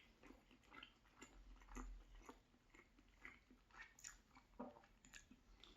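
Faint close-miked chewing of a hot mouthful of pork and beef meat pie: soft, irregular mouth clicks and smacks, a few a second.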